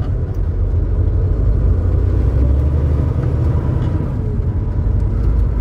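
Semi-truck on the move: steady low engine and road rumble.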